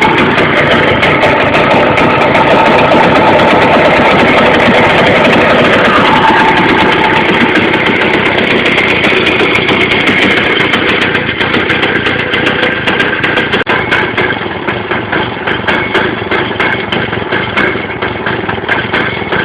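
Victa 160cc two-stroke lawnmower engine on a go-kart running as it warms up. It runs faster for roughly the first ten seconds, then drops back to a steady idle with distinct firing beats.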